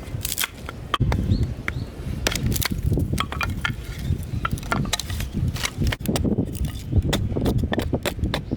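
Firewood being split with a large wooden mallet on a splitting board: a run of irregular sharp wooden knocks and cracks, several a second, over a low rumble.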